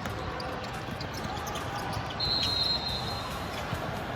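Basketball game in a gym: a ball bouncing and scattered knocks over the steady murmur of the hall, with a brief high squeal about two seconds in.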